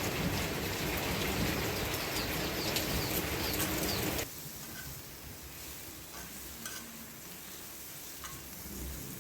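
Mushrooms and freshly added onions sizzling in hot oil in a frying pan, a steady hiss that drops suddenly to a quieter sizzle a little over four seconds in.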